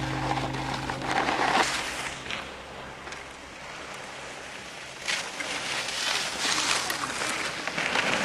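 Snowboard sliding and scraping over snow, a rushing hiss that eases off in the middle and comes back in surges in the second half. The tail of a song fades out in the first second or so.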